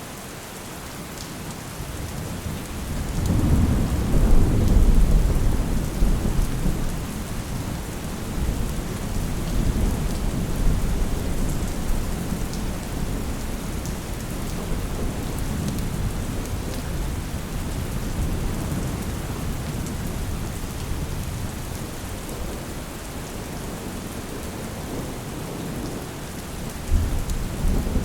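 Steady rain with a long roll of thunder that builds about two seconds in, peaks a few seconds later and rumbles on, slowly fading. Another rumble of thunder begins near the end.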